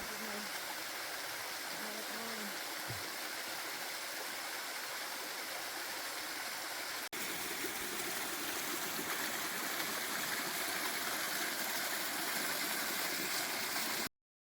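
Steady rushing of a mountain creek, with a brief dropout about halfway through after which the water sounds slightly louder. The sound cuts off abruptly near the end.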